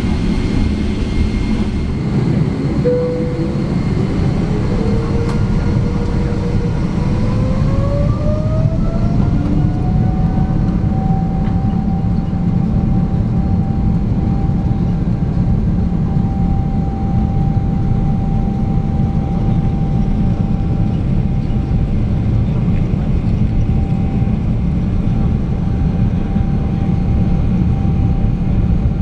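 Boeing 777-300ER's GE90 engines spooling up as heard in the cabin. A whine rises over about nine seconds and then holds steady over a loud low rumble, typical of engines going to takeoff thrust.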